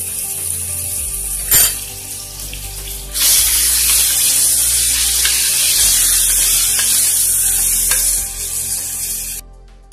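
Minced mutton sizzling as it fries in hot oil in a pressure cooker while it is stirred with a spatula. There is one sharp knock of the spatula on the pot about a second and a half in. The sizzle grows much louder from about three seconds in, then drops off sharply near the end.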